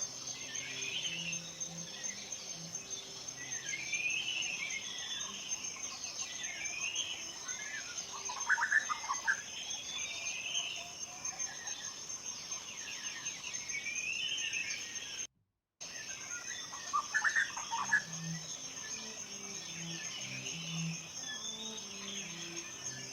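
Forest ambience: small birds singing repeated, arching phrases over a steady, high insect trill, with two louder bird calls about a third of the way in and again about three-quarters through. Soft low notes sound underneath, and the sound cuts out completely for about half a second about two-thirds through.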